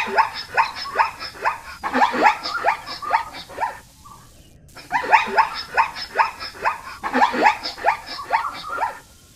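An animal calling in rapid bouts of short yelping notes, about three or four a second, each note falling in pitch, with a short pause about four seconds in.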